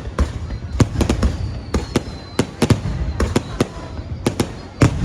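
Fireworks exploding: many sharp bangs in quick, irregular succession over a steady low rumble, with a brief high whistle about two seconds in.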